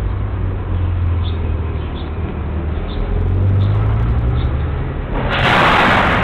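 Car engine and road noise heard from inside a moving car: a steady low drone under an even rush of tyre noise. Near the end a sudden loud hissing burst cuts in for about a second.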